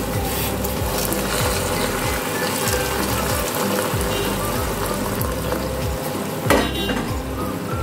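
Spice masala frying in hot oil in a kadai, sizzling steadily, as hot water is poured in and the pan bubbles up. The masala is fully cooked, the oil separated, at the stage where hot water goes in for the gravy. A single sharp knock about six and a half seconds in.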